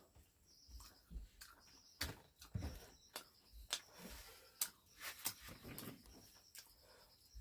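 Close-up eating sounds: chewing with irregular wet mouth clicks and smacks, a few sharper ones near the middle.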